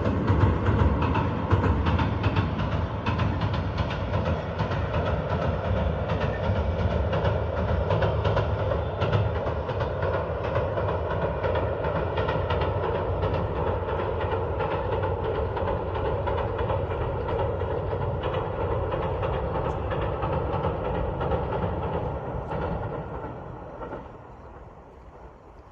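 A diesel local train running past, its wheels clattering over the rail joints with a steady rumble; the sound fades away over the last few seconds as it goes off.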